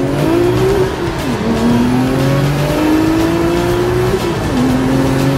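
Twin-turbo 3.8-litre flat-six of a modified Porsche 996 Turbo accelerating hard through the gears. The engine note climbs steadily and drops at two upshifts, about a second in and again near the end.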